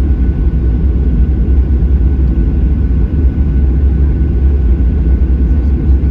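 Cabin noise inside a Boeing 737-800 taxiing on the ground: a loud, steady deep rumble from its CFM56 engines at low thrust and the rolling airframe, with a faint steady whine above it.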